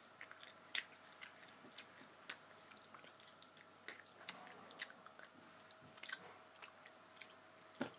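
A person chewing a Starburst chewy candy fast with the mouth: faint, irregular wet clicks and smacks, a few each second.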